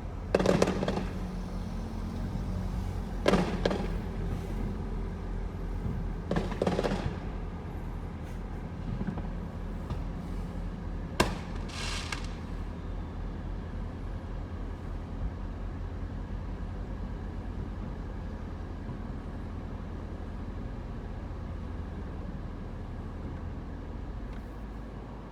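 Fireworks shells bursting overhead: four booms in the first twelve seconds, the last a sharp bang followed by a crackle. The rest is a steady low rumble with no bursts.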